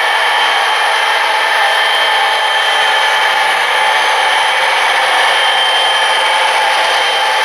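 Model train running on the layout, a steady high whirring with no low rumble.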